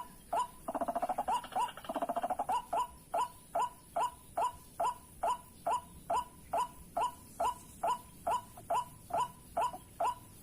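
White-breasted waterhen (ruak-ruak) calling: a steady, evenly spaced series of short croaking 'wak' notes, about two to three a second, with a denser rasping stretch about a second in.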